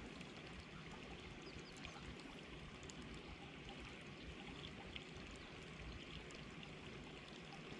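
Creek water running in a faint, steady rush, with scattered tiny clicks.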